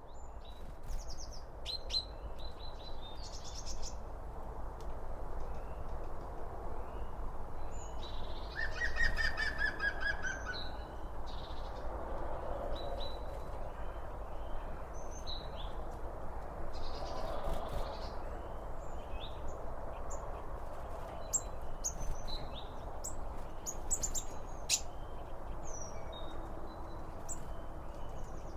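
Several songbirds singing and chirping over a steady background hiss, with a quick run of falling notes about nine seconds in.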